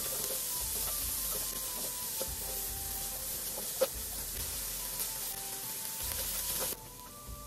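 Diced onion and spring onions sizzling as they fry in a non-stick pan, stirred with a wooden spatula that knocks against the pan, loudest a little under four seconds in. The sizzling cuts off suddenly near the end. Quiet background music with a simple melody underneath.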